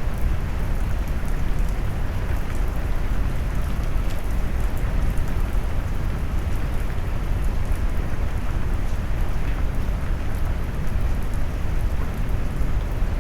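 Steady, deep rain noise: a low brown-noise rumble mixed with rain, with faint scattered drop ticks on top.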